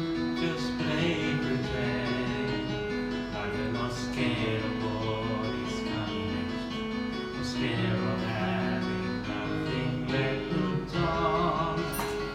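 A solo singer performing a slow ballad live, with instrumental accompaniment.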